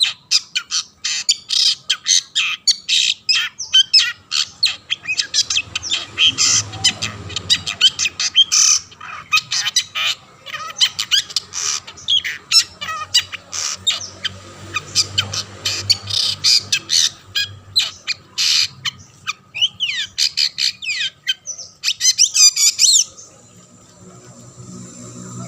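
Long-tailed shrike (cendet) in full song: a fast, harsh chatter of rapid scratchy notes and squawks. It breaks off abruptly about 23 seconds in.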